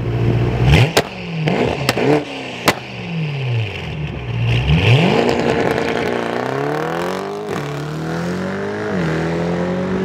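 A tuned 4.0-litre twin-turbo V8 with catless downpipes and a custom titanium exhaust is revved hard several times, with three sharp exhaust bangs in the first three seconds. It then pulls hard under acceleration, and the engine note rises and drops twice at upshifts.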